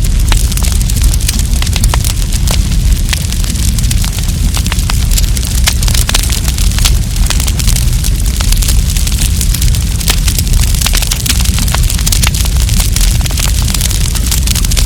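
Wood campfire crackling, with many sharp irregular pops over a steady hiss and a low rumble.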